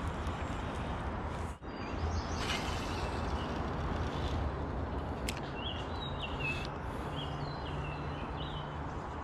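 A songbird chirping in short stepped phrases, clearest past the middle, over a steady outdoor rumble, with one sharp click about five seconds in.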